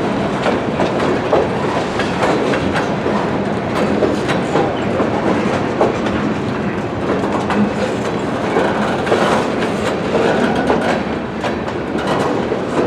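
Freight train cars rolling past steadily, their wheels clicking and clattering over rail joints.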